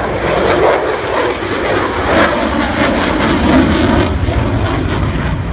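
F-22 Raptor's twin jet engines heard from the ground as it flies past: a loud, steady rushing noise that crackles for a stretch in the middle.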